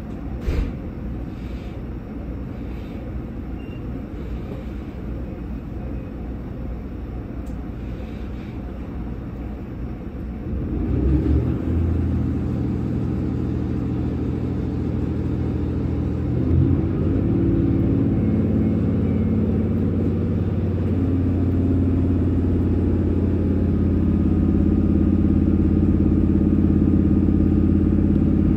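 Inside a passenger train: a steady low rumble with a brief clunk near the start. About ten seconds in, the train's drive powers up into a loud humming note that steps up in pitch as the train pulls away and gathers speed.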